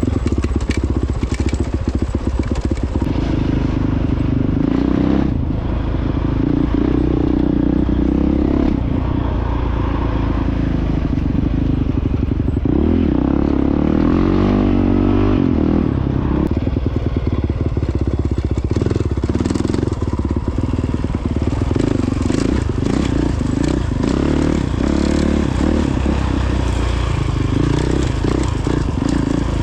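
Honda CRF450X dirt bike's single-cylinder four-stroke engine running under way on a trail, its revs rising and falling with the throttle, with clattering knocks from the rough ground.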